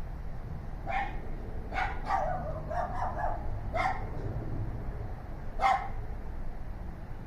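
Neighbour's dogs barking: a quick run of barks in the first few seconds, then single barks, the loudest near the end, over a steady low background rumble.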